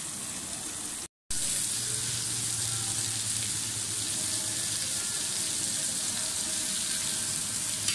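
Chicken tikka skewers frying in oil on a ridged grill pan, a steady sizzle. It drops out briefly about a second in and comes back a little louder.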